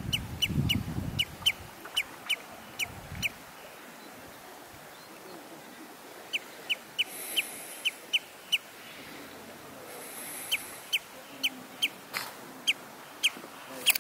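A bird repeating a short, sharp call over and over, about three a second, in three runs with pauses between.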